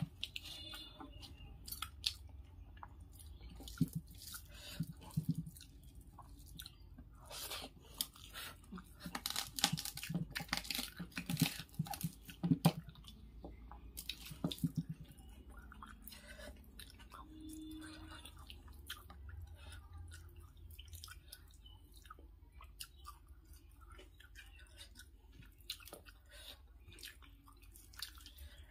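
Close-up mouth sounds of eating rice by hand: chewing and wet smacks, with the soft squish of fingers mixing rice on a steel plate. The clicks and smacks come scattered and are busiest around the middle.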